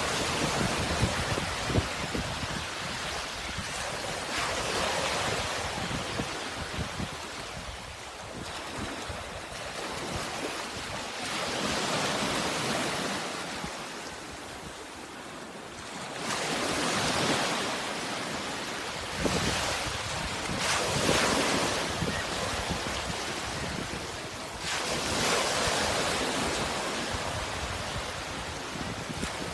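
Sea waves breaking and washing on the shore, the surf swelling and falling back in slow surges every few seconds.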